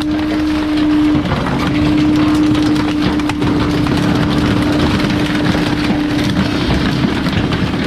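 Garbage truck running, with a steady hum over dense mechanical noise; the hum drops out briefly about a second in.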